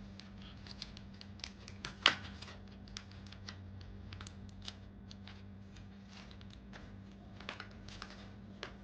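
Scattered light clicks and taps, with one sharper click about two seconds in, over a steady low hum.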